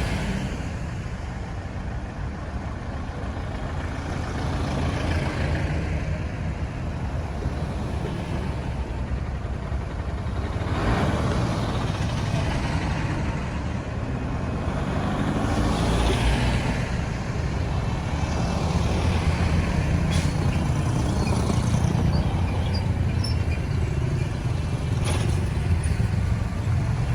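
Busy road traffic: a steady low rumble of engines and tyres, with several vehicles passing by in swells.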